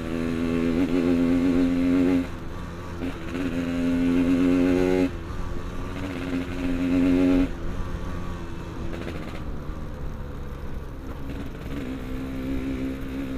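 Yamaha RX-King's two-stroke single-cylinder engine under way, heard from the rider. Its pitch climbs and drops off sharply three times, about two, five and seven and a half seconds in, then holds steadier.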